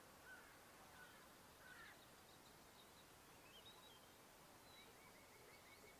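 Near silence with faint bird calls: a few short chirps, some higher gliding notes, then a fast trill of repeated notes starting about five seconds in.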